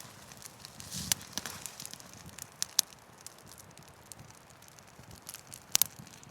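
Wood fire crackling: scattered sharp pops and snaps over a faint low background, with a pair of louder pops close together near the end.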